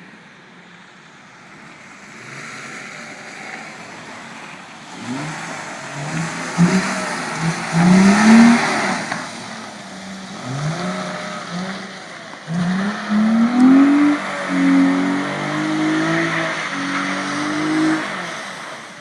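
All-wheel-drive Audi A4 engine revving hard again and again, its pitch climbing in repeated pulls, over a hiss of tyres spinning and sliding on snow. It starts quietly, builds about five seconds in, and eases off near the end.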